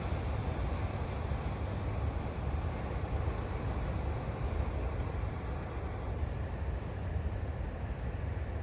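Steady outdoor ambience: a low rumble and hiss with no rhythm, with a few faint high chirps in the middle.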